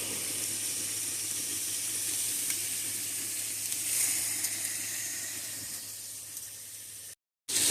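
Food frying in a hot pan: a steady sizzle that slowly fades, cutting out briefly just before the end.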